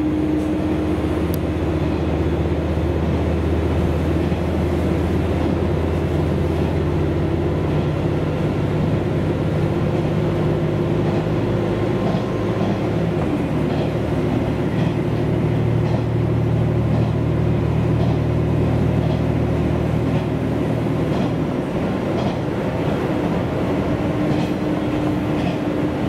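Diesel railcar running along the line, heard from inside the passenger car: a steady engine drone whose pitch changes about halfway through, with faint clicks of the wheels over the rails in the second half.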